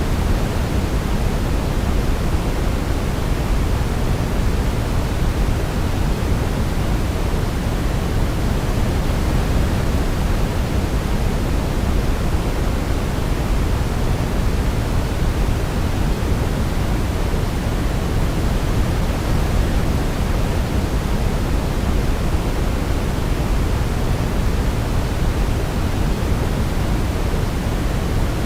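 Steady sleep-aid noise: an even, unbroken rushing hiss weighted toward the low end, with no melody standing out.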